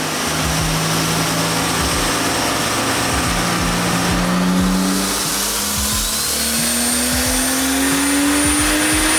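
2011 Ford Mustang V6 being driven: steady engine note over road noise, rising in pitch as the car speeds up over the last few seconds.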